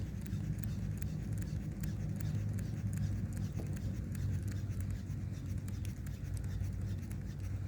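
Wind buffeting the microphone, a steady low rumble, with faint light ticks and scratches over it.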